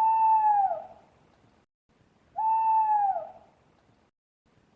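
Owl hooting: two long hoots about two and a half seconds apart, each held on one pitch and dropping at the end.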